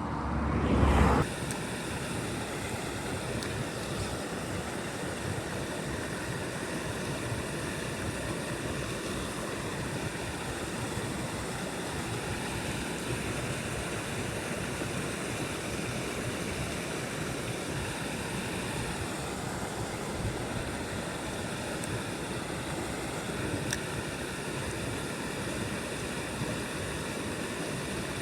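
Small mountain stream running steadily over rocks, an even rush of water. A brief loud rumble in the first second cuts off sharply.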